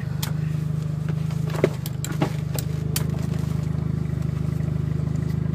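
Car engine idling steadily, heard from inside the cabin as an even low hum, with a few sharp clicks around one and a half to three seconds in.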